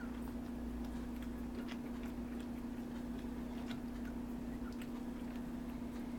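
Steady low electrical hum with faint, irregular small clicks and scuffs of newborn Cairn Terrier puppies squirming in their box.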